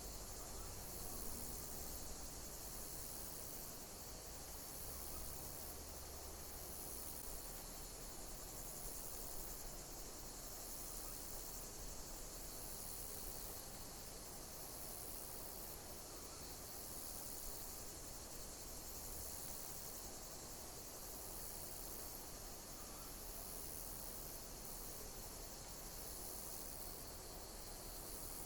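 Insects chirping: a high, falling call repeated about once a second, over a steady high-pitched hiss of more insects.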